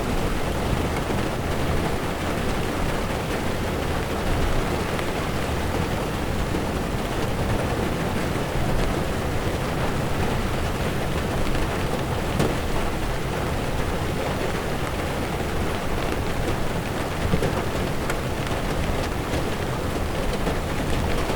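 Heavy rain falling on a car's windshield and roof, heard from inside the moving car, over the steady low rumble of tyres on a wet road. The sound is even throughout, with scattered sharp drop ticks.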